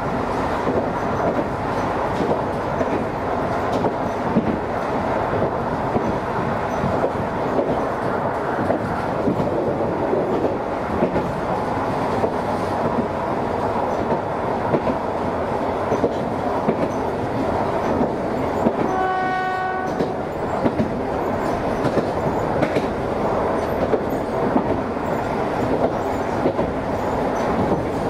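Chikuho Electric Railway train running along the line, heard from inside the car: a steady rumble of motors and wheels with frequent clicks from the rail joints. About two-thirds of the way through, the train's horn sounds once for about a second.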